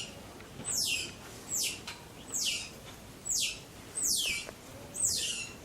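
A bird calling over and over: a high, quickly falling chirp repeated about once every 0.8 seconds, seven or so times.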